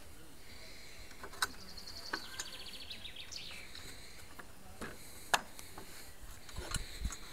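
A songbird sings a fast trill of repeated notes that falls in pitch, about two seconds in, over quiet outdoor ambience. Scattered sharp clicks and taps come from footsteps and handling, the loudest a little past five seconds.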